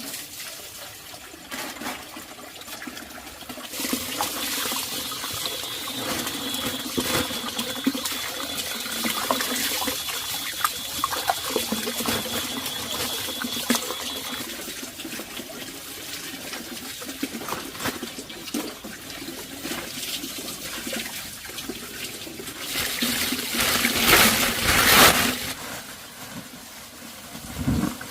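Water running and splashing, swelling to a louder rush near the end.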